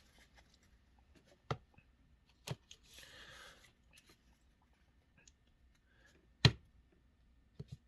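Quiet handling of Pokémon trading cards: a few scattered sharp clicks and taps of cards being flicked and set down, with a brief soft rustle of cards sliding about three seconds in. The loudest is a single tap late on.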